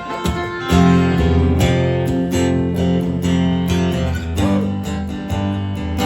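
Acoustic guitars strumming the opening of a song, coming in suddenly just under a second in with full chords over repeated low notes.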